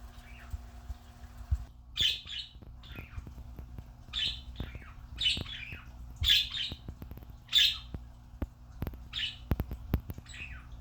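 Pet birds squawking: about eight short, harsh calls starting about two seconds in, mixed with scattered light knocks.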